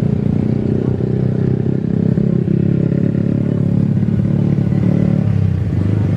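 A loud, steady engine rumble, heavy in the low end, whose upper part drops away about five seconds in.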